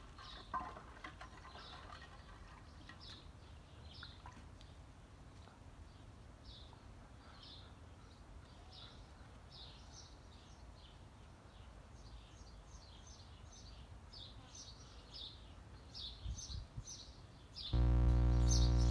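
Small birds chirping, short high chirps repeating in the background and coming faster in the second half. Near the end a loud, steady low buzz starts suddenly and cuts off after under two seconds.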